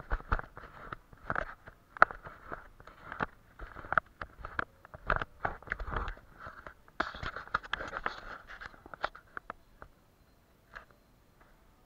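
Watercolour brush scrubbing and dabbing on paper in quick, irregular scratchy strokes with sharp little clicks, falling mostly quiet near the end.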